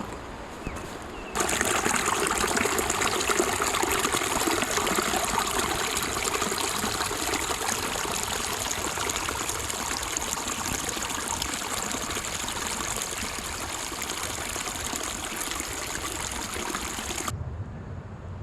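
Water of a mountain stream rushing steadily. It cuts in abruptly about a second and a half in and cuts off just before the end.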